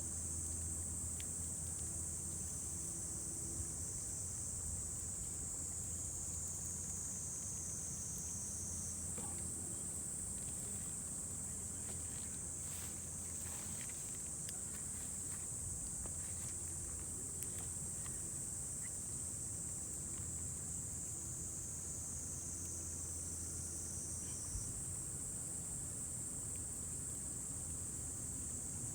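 Steady, high-pitched insect chorus that keeps on without a break, over a low steady hum, with a few faint clicks.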